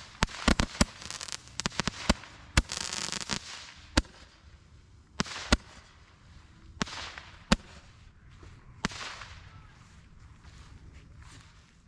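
Roman candles firing from a holder rack: a fast string of sharp pops and crackles with a hiss, thinning to single pops about a second apart, then dying away.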